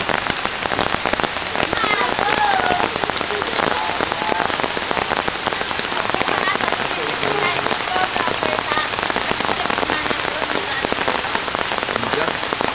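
Heavy rain falling steadily on floodwater and the surrounding roofs and leaves: a dense, even hiss full of fine crackling drops.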